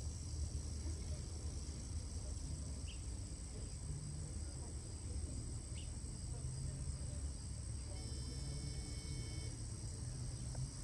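Steady high-pitched insect chorus, like crickets, over a low rumble, with two short faint chirps and a brief held tone about eight seconds in.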